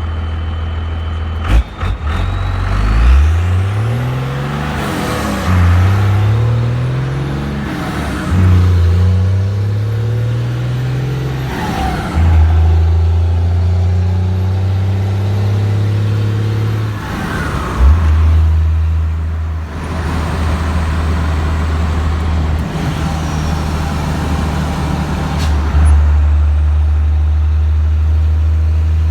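12-valve Cummins diesel with a downpipe-only exhaust pulling up through the gears of a 5-speed manual, its note climbing and then dropping at each of several shifts before holding steady at cruise. There are a couple of sharp clicks about a second and a half in.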